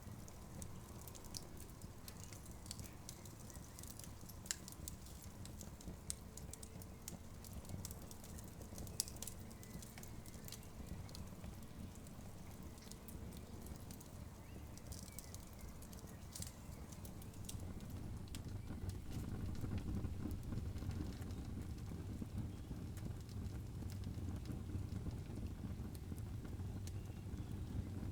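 Campfire burning, with scattered sharp crackles and pops over a low rumble that grows louder about two-thirds of the way in.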